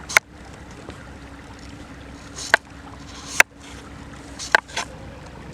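A knife chopping a hard radish: five sharp, irregularly spaced chops, two of them close together near the end.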